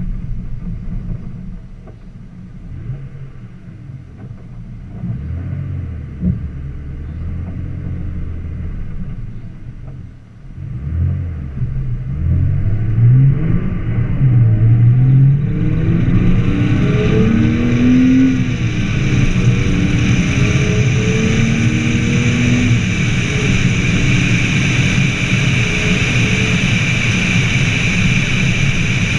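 BMW Z4 sDrive23i's 2.5-litre straight-six engine, heard from outside on the bonnet: running at low revs for about ten seconds, then accelerating hard, its pitch rising through several gear changes. Once the car is at speed, wind rush grows loud over a steadier engine note.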